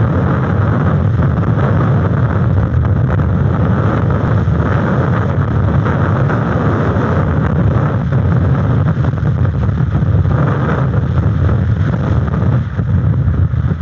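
Strong gusting wind buffeting the outdoor nest camera's microphone: a loud, steady rumble with rushing noise.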